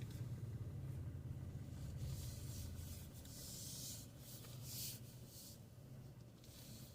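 Truck engine idling as a low steady hum inside the cab, with a few short rustling, hissing sounds near the middle.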